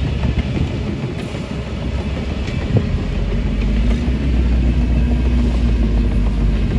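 Heavy diesel earthmoving machinery running with a deep, steady rumble that gets louder from about four seconds in as the engine comes under more load. One sharp metallic knock sounds near the middle.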